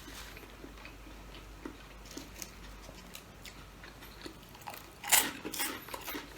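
A person chewing food, with small wet mouth clicks throughout and a louder crunch about five seconds in.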